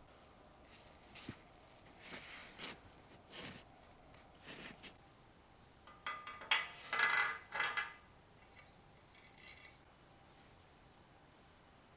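Metal tools and small parts clinking and scraping against each other in short, irregular bursts. The busiest and loudest stretch comes around six to eight seconds in, with a brief metallic ring.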